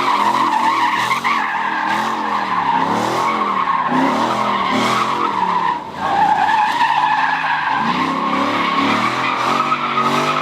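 A car's tyres squealing in a long, continuous skid while its engine revs up and down over and over. The squeal drops out briefly about six seconds in, then resumes.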